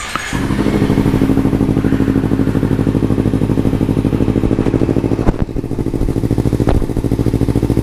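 Kawasaki Z300 parallel-twin engine idling steadily through an aftermarket Musarri slip-on exhaust with its baffle removed, giving an even, rapid pulsing exhaust note. Two short clicks sound about five and six-and-a-half seconds in.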